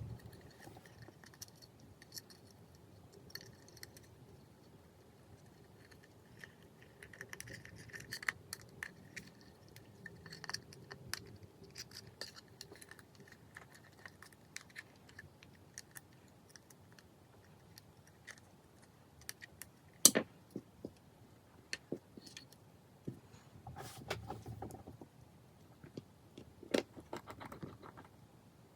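Small metal tools and phone parts clicking and clinking on a work surface as they are handled, with one sharper click about twenty seconds in.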